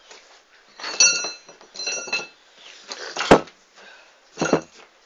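Metal parts being handled: two ringing metallic clinks about one and two seconds in, then a sharp knock a little after three seconds, the loudest sound, and another knock near the end.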